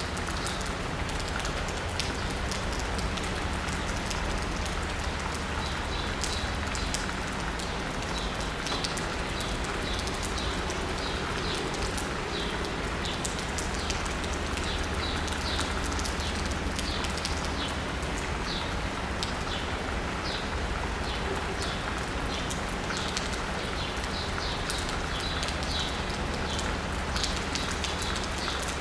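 Steady rain falling on asphalt and rooftops, with a fine patter of drops. Small birds chirp repeatedly through the rain, in short high notes from a few seconds in.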